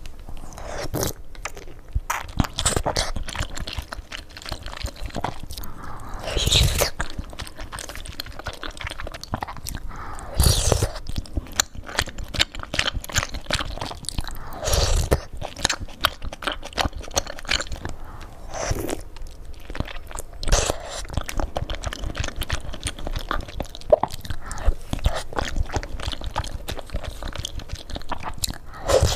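Close-miked eating: continuous chewing with crunching and wet mouth clicks, broken by a handful of louder bites every few seconds.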